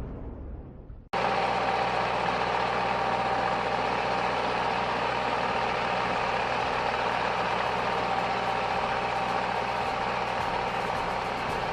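A boom-like sound dying away, then, after a sudden cut about a second in, a heavy machine's engine running steadily with a constant hum.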